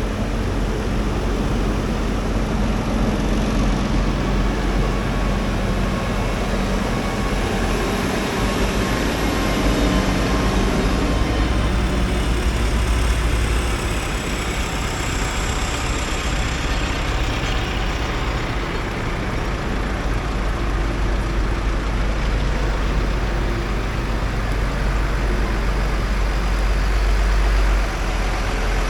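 Tractor engine running steadily with a deep rumble, under a broad mechanical noise; a faint high whine slides downward in the middle.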